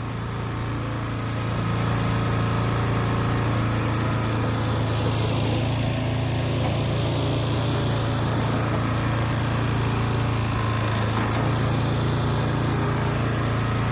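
Toro TimeMaster walk-behind mower engine running steadily after a cold start of the season. The belts and blade drive sound solid.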